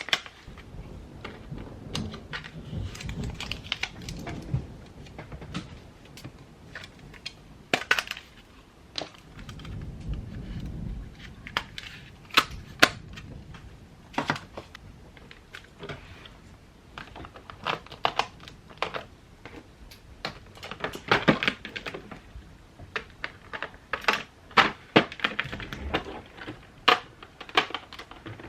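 Irregular clicks and taps of paper and stationery being handled at a desk while journaling, quickening into rapid clusters in the second half. Low rumbling swells in twice, in the first few seconds and again about ten seconds in.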